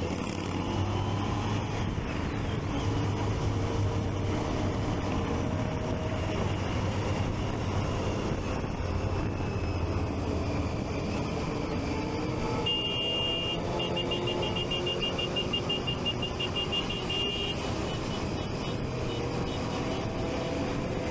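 Motorcycle engine running at low, slowly shifting revs, with traffic noise around it. About midway a rapid high electronic beeping sounds for about five seconds.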